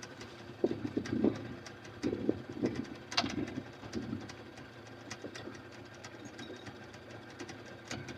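An engine running steadily, with scattered light clicks and knocks over it.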